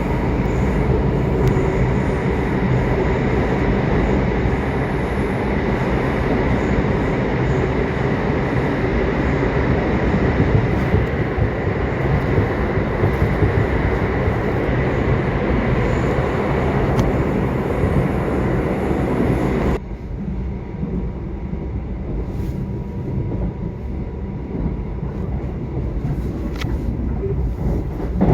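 Subway train running: a steady, dense rumble and rail noise. About 20 seconds in, the sound suddenly turns duller and a little quieter.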